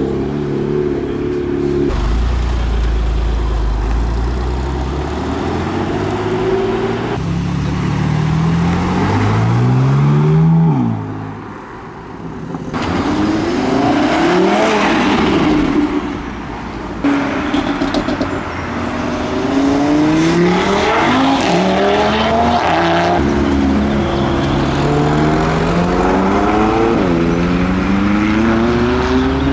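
Several performance cars accelerating one after another, their engine notes climbing in pitch and dropping back at gear changes, with abrupt cuts between the cars.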